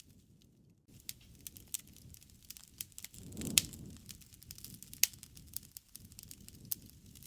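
Wood bonfire crackling, with many small snaps and a few louder pops, the loudest about halfway through, over a soft low rush of the flames.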